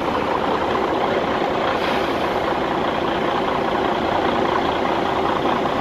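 Semi truck's diesel engine idling, a steady hum heard from inside the cab.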